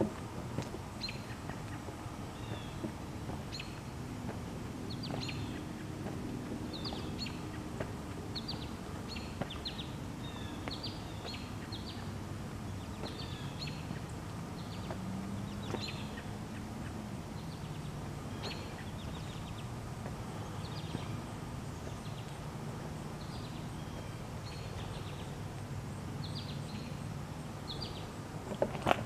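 Small birds chirping again and again, short high calls every second or so, over a low steady hum.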